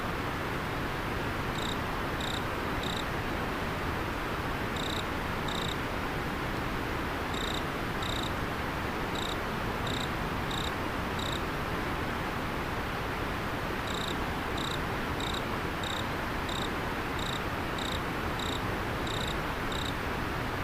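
River water flowing steadily, with an autumn insect chirping over it: short, high, clear single notes in irregular runs, broken by pauses of a second or two.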